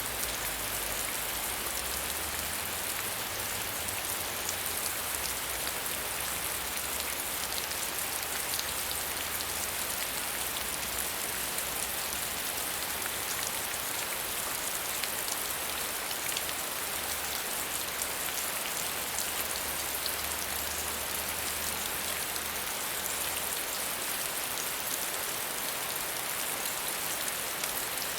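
Steady medium rainfall, a dense even patter of drops on surfaces with no thunder.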